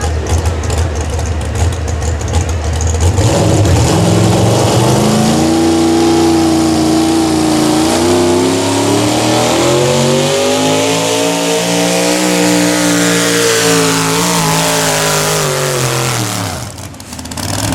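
Modified pulling truck's engine at full revs during a pull: its pitch climbs for several seconds, then sinks steadily before the sound drops away near the end.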